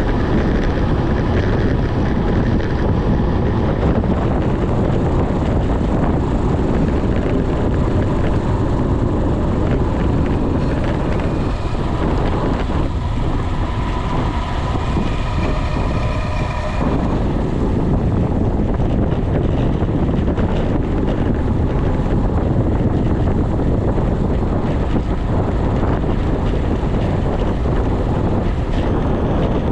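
Wind rushing over the microphone of a bicycle descending fast on a wet mountain road: a loud, steady rush with a deep rumble, mixed with tyre hiss on the wet tarmac. Faint high tones come in briefly around the middle.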